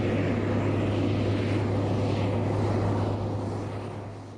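Heavy road-train truck driving, a steady low engine drone with road noise, fading away near the end.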